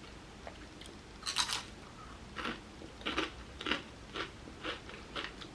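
Close-miked person biting into crunchy food, one crisp crunch about a second in, then chewing with short crunches about twice a second.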